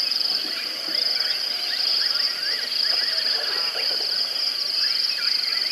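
Outdoor nature ambience: a steady, high-pitched insect chorus with a fine buzzing pulse, and many short bird chirps and calls scattered throughout.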